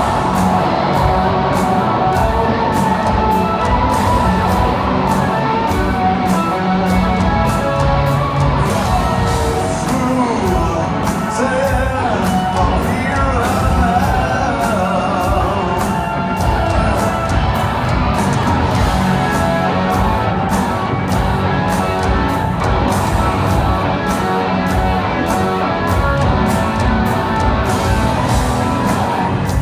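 Live rock band playing at full volume, with a steady driving drumbeat, guitars and a singer's voice.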